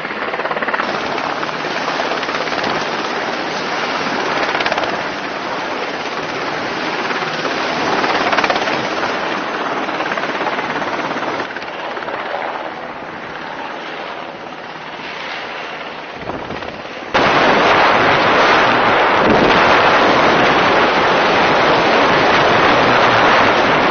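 Rapid, continuous machine-gun fire, a dense crackle with no pauses. It becomes abruptly louder about 17 seconds in.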